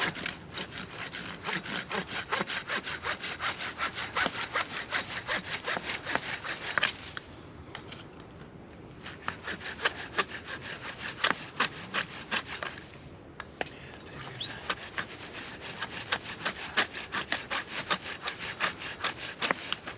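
Silky GomBoy folding hand saw cutting through wood with quick, even back-and-forth strokes, in three runs broken by two short pauses.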